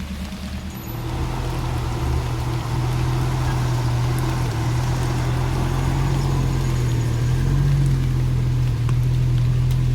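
Off-road vehicle's engine running at a steady pitch, its drone coming in about a second in and growing gradually louder.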